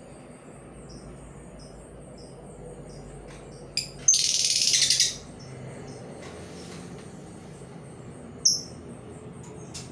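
Labet decoy bird calling: short high chirps, then a loud, harsh rasping call lasting about a second about four seconds in, and a sharp chirp near the end, over a steady, evenly pulsing high trill.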